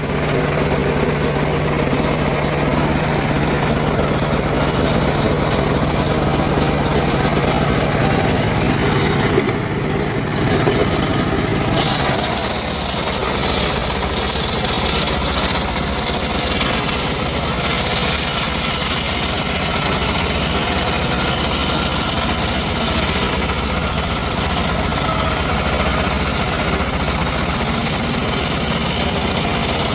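Engine of a homemade circular sawmill rig running steadily. About twelve seconds in, its steady low hum drops away and a broad hiss comes in and holds, as if the blade has started cutting wood.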